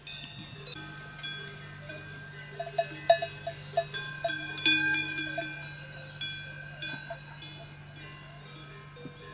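Metal bells clanking irregularly, each strike ringing on at its own pitch, busiest around the middle, over a steady low hum.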